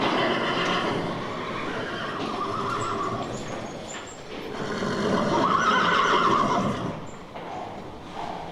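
Horses neighing in their stalls: long whinnies, the loudest a little over halfway through.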